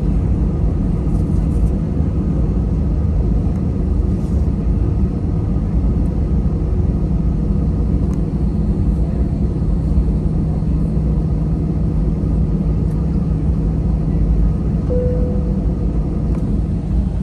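Airliner jet engines and airframe heard from inside the cabin: a loud, steady rumble with a steady low hum, and a short faint tone about fifteen seconds in.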